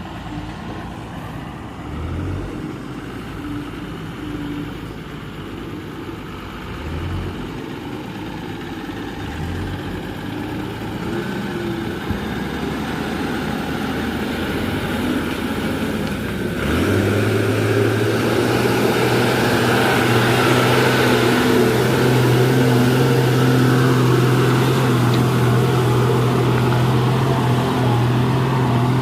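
Tata 1613 tipper truck's diesel engine working under load on a slippery road. Somewhat over halfway through it suddenly gets louder and settles into a steady, higher engine note held at high revs.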